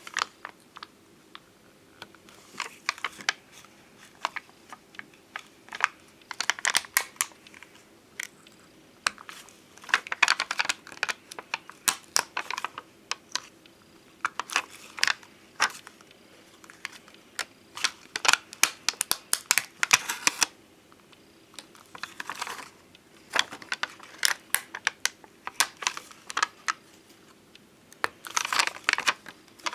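Bonbon drop stickers and ohajiki stickers being handled: irregular clusters of small sharp clicks, taps and crinkles, with short pauses between clusters.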